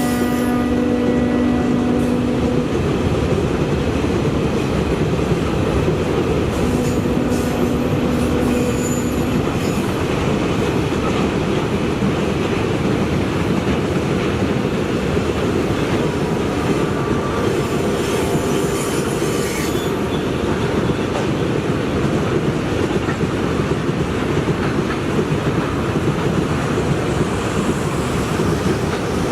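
A train running on the rails with a steady, loud wheel-and-track noise. A held pitched tone sounds over it at the start and again from about seven to nine seconds in.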